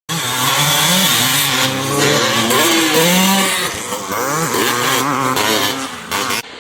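Several vintage motocross bikes racing, their engines revving, with pitch rising and falling and overlapping. The sound starts abruptly and cuts off sharply near the end.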